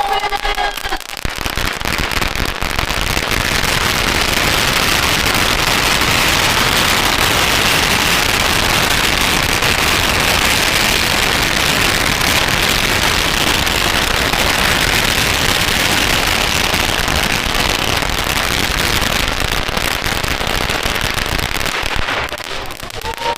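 Strings of firecrackers going off in a dense, unbroken crackle. It starts about a second in, holds loud and steady for some twenty seconds, and dies down near the end.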